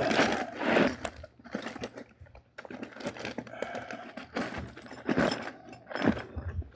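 Loose metal sockets clinking and rattling against each other as a hand rummages through them in a tool bag, a quick run of sharp clinks.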